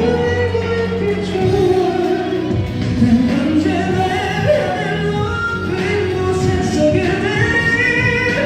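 Male pop-ballad singer singing wordless runs and held, sliding notes over a recorded ballad backing track with sustained chords.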